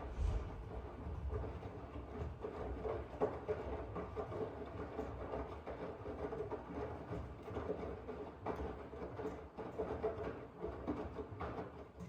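Miele W1 washing machine running: a steady mechanical rumble from the turning drum, with irregular small knocks and clicks through it.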